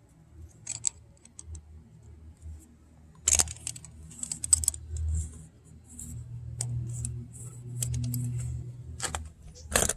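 Small metal clicks and taps, scattered irregularly, as a tire pressure monitor sensor is tightened onto a tire valve stem; a sharper click comes near the end.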